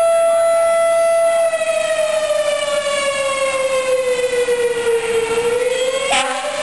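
Fire engine siren wailing: a loud steady tone that, about a second and a half in, slowly falls in pitch and then climbs again near the end. A short sharp sound cuts across it about six seconds in.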